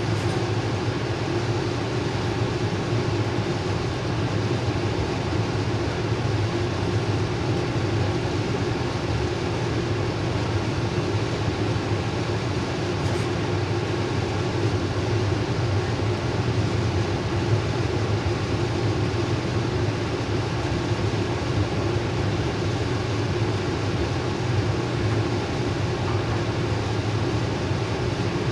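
Steady rumble of trains running on rails, heard from inside a passenger car while a long freight train of tank and hopper cars rolls past alongside, with a low steady hum under it.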